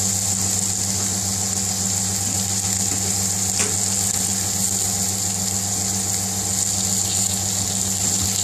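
Chopped onion and peppers with curry powder sizzling steadily in oil in a frying pan on a gas burner, over a steady low hum.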